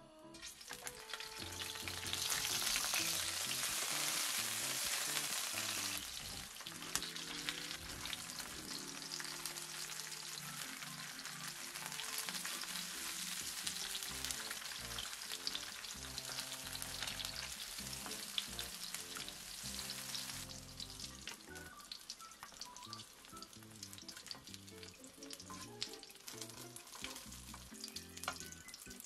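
Spam slices and hot dogs sizzling in hot oil in a nonstick frying pan. The sizzle starts about half a second in, is loudest over the next few seconds, and drops back after about twenty seconds. Background music plays underneath.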